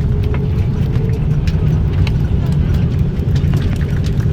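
Airliner cabin noise after landing: a steady low rumble from the engines and the aircraft rolling along, with a faint steady hum and a few light clicks.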